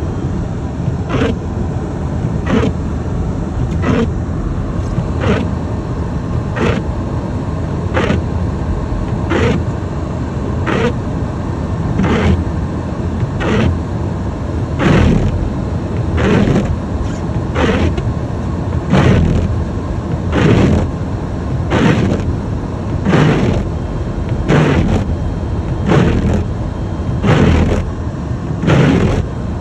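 Windshield wipers sweeping back and forth about once every second and a half, each stroke a swish, over the steady low rumble of the car's engine and tyres heard from inside the cabin.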